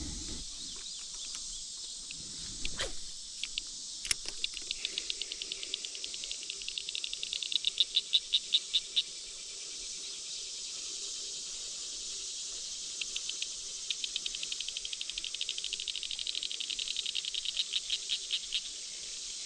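Evening insect chorus, a steady high hiss, with two runs of rapid clicking calls that grow louder and then stop, one early and one near the end. A couple of soft knocks come in the first few seconds.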